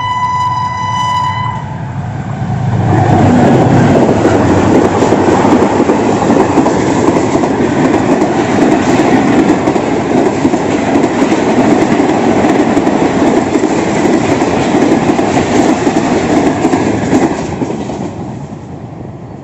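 Passenger train locomotive sounding one long horn as it nears, cutting off about a second and a half in. Then the Pak Business Express passes close by, a loud steady rumble of wheels and coaches on the rails that fades near the end.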